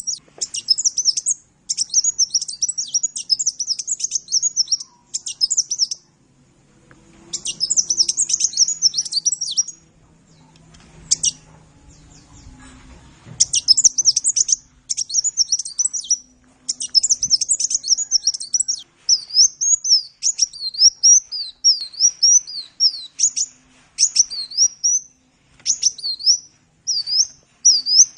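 Sunbird ('kolibri') singing a high, rapid twittering chatter in bursts, with two short pauses, then settling into a run of separate, repeated down-slurred notes about one a second.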